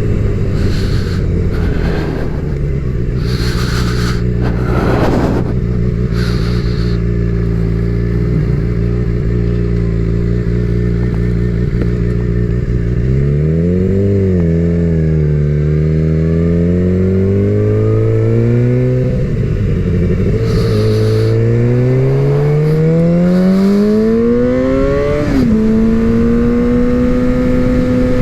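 Suzuki GSX-R750 sportbike's inline-four engine running steadily, then pulling up through the revs in several rising sweeps with dips between them, ending in a sharp drop in pitch at a gear change before it holds steady. Short bursts of rushing noise come and go over the engine.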